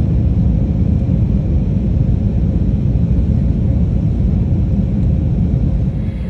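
Loud, steady low rumble of a vehicle in motion, with a faint steady hum above it; it drops off sharply near the end.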